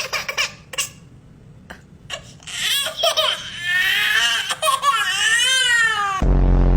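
A few sharp rustles or clicks, then a young child's high-pitched vocalizing, wavering and swooping up and down for several seconds. Near the end a loud, low buzz cuts in.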